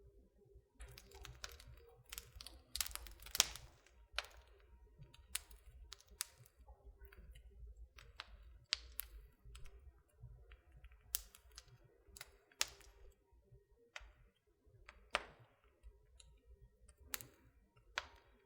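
Wood fire in a fireplace crackling: irregular sharp pops and snaps, thickest about two to four seconds in, then scattered.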